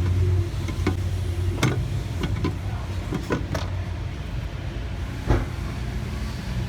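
Scattered sharp clicks and knocks of a fuel filter housing being handled and guided into its mounting bracket, about half a dozen over several seconds, over a steady low hum.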